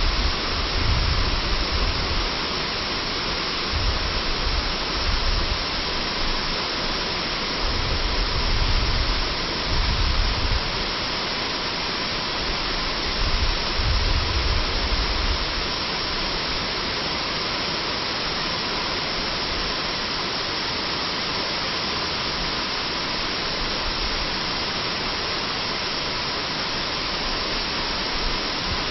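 Waterfall, water falling and rushing in a steady, even roar of noise. Bursts of low rumble come and go during roughly the first half.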